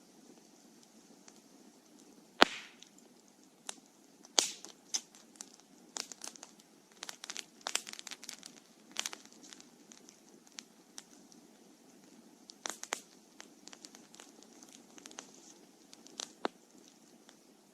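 Wood campfire crackling and popping: irregular sharp snaps over a steady low hiss. A single loud pop comes about two and a half seconds in, and thicker runs of crackles follow in the middle and again near the end.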